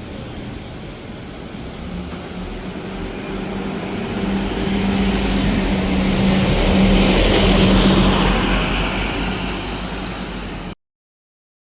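Scania K230UB single-deck bus's diesel engine running as the bus moves off and passes, with a steady low drone and road noise. It grows louder to a peak about seven to eight seconds in, then eases off before the sound cuts off suddenly near the end.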